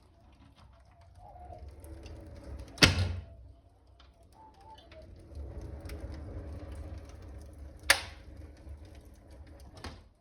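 Wood fire in a fireplace: the flue draft hums and rumbles, swelling and easing twice, the humming the speaker calls singing. Burning wood cracks sharply twice, about 3 s and 8 s in, with a smaller crack near the end.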